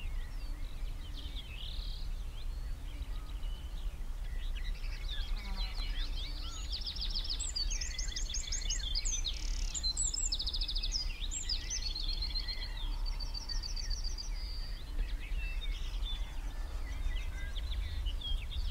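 Several songbirds singing and calling together, busiest around the middle with quick repeated trills, over a steady low rumble.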